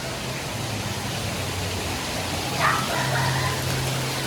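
Steady rush of water pouring and splashing down around a water-park cave, with a low steady hum beneath it. A short high voice call cuts through about two and a half seconds in.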